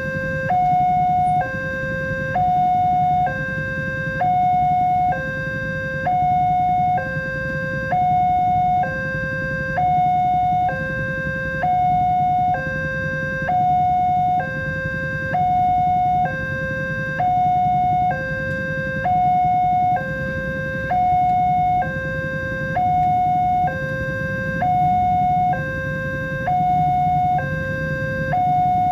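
Electronic level-crossing warning alarm sounding a steady two-tone chime, stepping between a higher and a lower tone about once a second, with a low rumble underneath.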